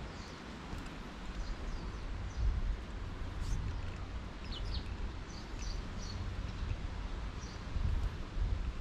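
Several short, high bird chirps from small songbirds over a steady low rumble of wind on the microphone.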